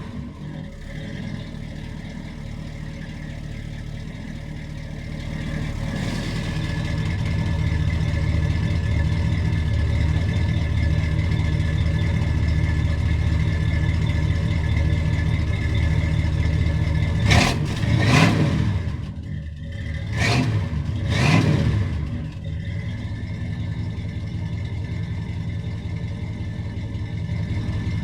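1978 Chevrolet Caprice's 5.7-litre V8 running after a cold start. It idles steadily, its note rising and steadying about six seconds in. Between about 17 and 22 seconds in it is blipped four times, then it settles back to a lower idle.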